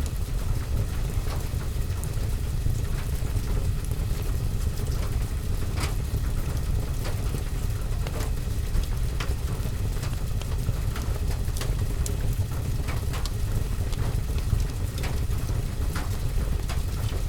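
Rain on a roof and window as a steady low rumble, with scattered sharp crackles and pops from a wood fire in a fireplace.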